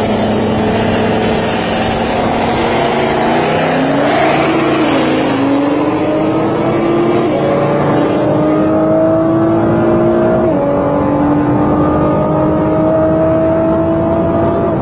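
Motor vehicle engine accelerating under load, its pitch climbing steadily, dropping suddenly once about ten seconds in as it shifts gear, then climbing again.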